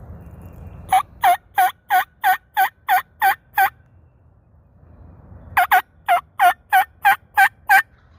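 Two loud runs of wild-turkey hen yelps on a mouth diaphragm call, each about nine evenly spaced notes that break downward in pitch, with a short pause between the runs.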